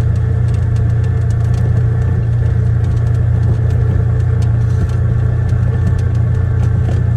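Polaris Ranger Crew 1000 XP side-by-side's twin-cylinder engine running steadily under way, a constant low drone with a few faint clicks.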